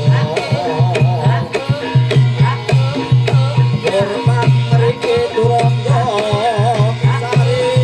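Live Javanese gamelan music for a jaranan trance dance: the kendang drum plays repeated deep strokes and sharp slaps in a steady rhythm, under a wavering melody line.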